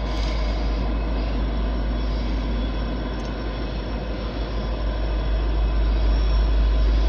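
Diesel locomotives of a Norfolk Southern local freight train running, a steady engine rumble that grows a little louder near the end.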